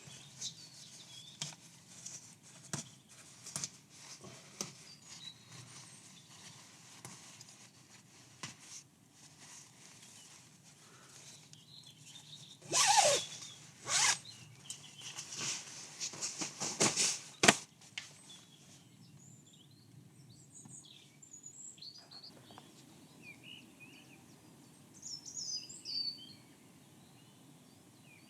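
Rustling and clicking handling sounds, with a run of louder swishes just before the middle, then birds chirping in the background in the second half.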